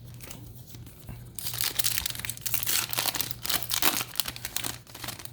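Foil Yu-Gi-Oh! booster pack wrapper being torn open and crinkled, a dense crackle starting about a second and a half in and lasting about three seconds.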